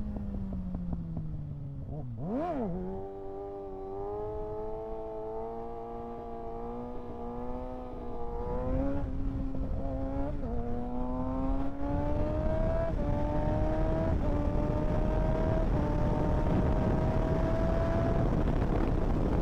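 2025 Kawasaki ZX-6R's 636 cc inline-four engine slowing down, then one quick blip of the throttle, then pulling up through the gears with several upshifts, each shift a small drop in pitch. Wind noise builds as speed rises.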